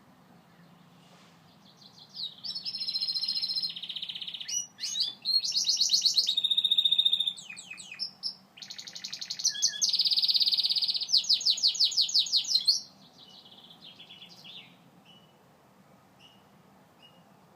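Gloster canary singing: a long song of fast rolling trills and rapid repeated notes, high-pitched, that starts about two seconds in and stops after about eleven seconds, followed by a few soft short notes.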